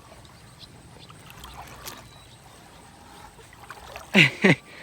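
Faint water lapping and trickling around a pallet-and-barrel raft floating still. Near the end a person gives two short, loud vocal sounds.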